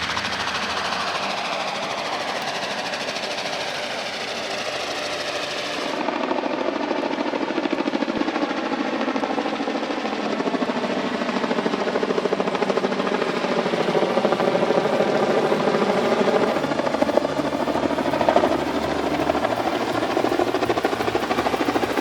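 Helicopter lifting timber, its rotor beating in a fast, steady pulse. The sound changes abruptly about six seconds in.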